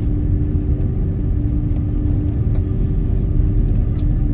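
Airliner cabin noise during takeoff: a loud, steady deep rumble with a steady engine hum above it and a few faint rattling clicks.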